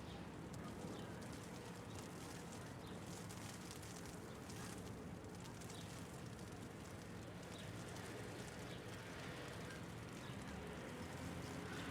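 Steady low city traffic hum with scattered faint ticks of hail.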